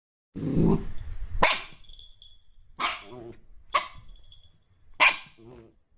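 A dog growling low for about a second, then barking four times, each bark a second or so apart.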